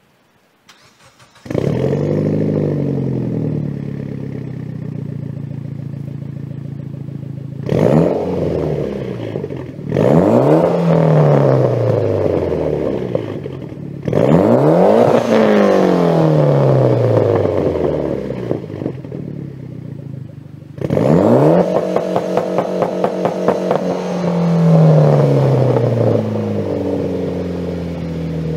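Mitsubishi Lancer Evolution X's turbocharged four-cylinder, breathing through a catless test pipe and ETS V2 exhaust, starting about a second and a half in and settling to idle. It is then revved about four times, each rev falling back to idle.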